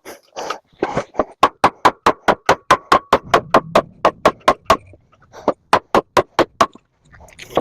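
Rapid hammer blows on a microwave oven transformer, about four to five strikes a second with a ringing metallic note, knocking the transformer apart at its seam to get at the copper windings. The blows pause briefly in the middle, then a shorter run follows.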